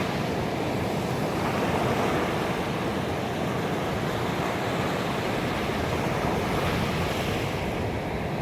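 Ocean waves breaking and washing on a beach: a continuous rush of surf that swells a little about two seconds in and again around seven seconds.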